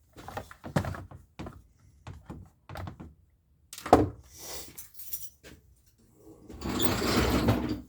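Knocks and clatter of parts and a plastic bottle being handled on a workbench, with one sharp knock about four seconds in and about a second of rustling scrape near the end.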